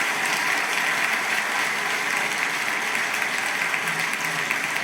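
Audience applauding on a live concert recording after a song ends.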